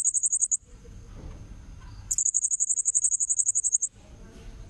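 Blue-crowned hanging parrot (serindit) calls from a bird-lure recording: bursts of rapid, shrill, high-pitched notes, about fifteen a second. One burst ends half a second in, a longer one runs about two seconds in the middle, and another begins near the end.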